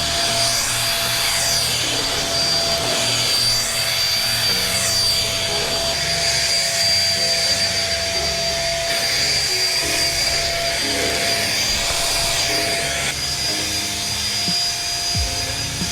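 Vacuum cleaner running steadily with a constant high whine, its hiss rising and falling in tone as it is moved, under soft background music.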